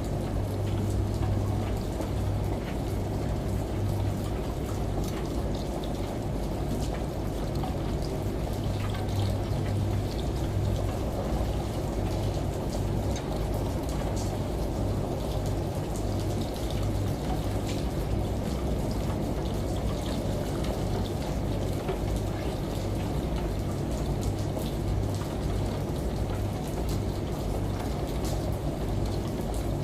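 Steady rush of running water and rain over a washing machine's low hum, which wavers in strength but never stops.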